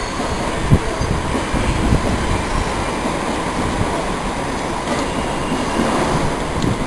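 A train running past on the rails: steady running noise with a faint steady whine and a few sharp clicks.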